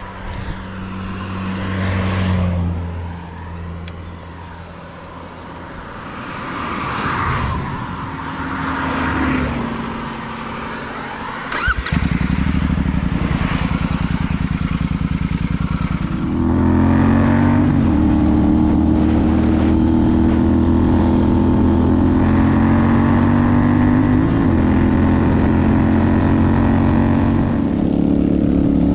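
Royal Enfield Super Meteor 650's parallel-twin engine and exhaust running on the move, its note changing at first, then getting suddenly louder about twelve seconds in and again about four seconds later before holding a steady drone.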